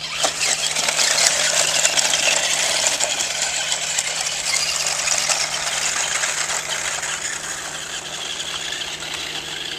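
Small toy monster truck running: a dense mechanical rattle and whir that starts suddenly and fades gradually.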